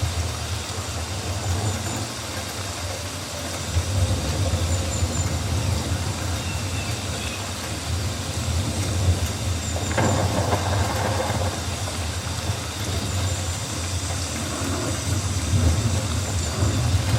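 Rainforest ambience: an even hiss of rain over a steady low rumble, with a few faint high chirps. A brief louder rustle comes about ten seconds in.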